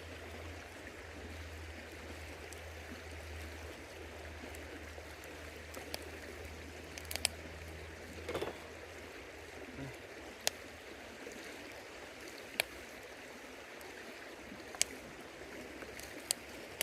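River water flowing steadily. A few sharp pops or clicks stand out every couple of seconds.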